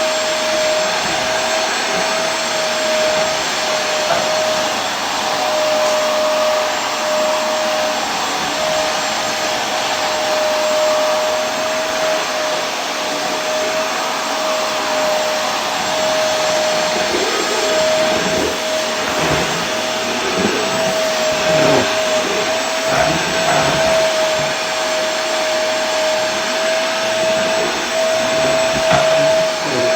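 Vacuum cleaner running continuously: a steady motor whine over a rushing airflow noise. Some uneven low rumbling comes in during the second half.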